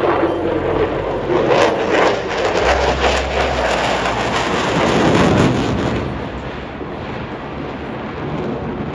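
Jet noise from an F-22A Raptor's twin turbofans during its display: a loud, ragged rush that peaks about five seconds in and then fades.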